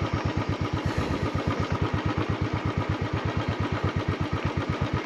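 Motorcycle engine running at low, steady revs, a regular pulsing beat of about ten beats a second, as the bike is eased down a steep, rough trail.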